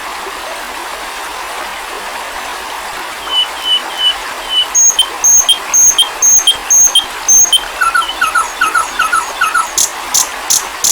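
A songbird singing a varied, rapid song over a steady hiss: about three seconds in, it starts a series of short, clear, repeated notes, switching to a new note type every second or two, and ends with a fast run of harsh, sharp notes.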